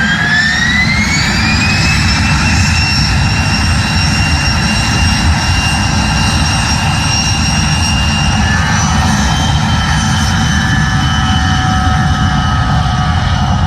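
Jet aircraft engine running loudly: a whine that rises in pitch over the first two seconds and then holds steady above a deep rumble.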